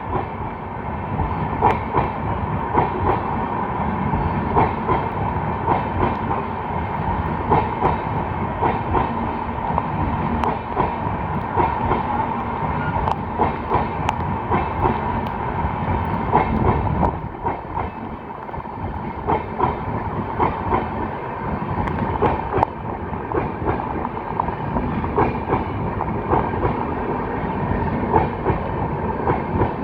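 Train running along the track: a steady rumble with a constant whine and frequent clicks of the wheels over the rail joints, dipping briefly quieter a little past the middle.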